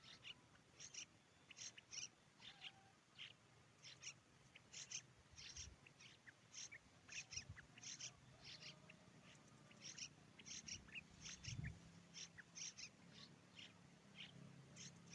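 Faint, short, high bird chirps repeated irregularly, two or three a second, with a soft low hum and a couple of dull thumps in the background.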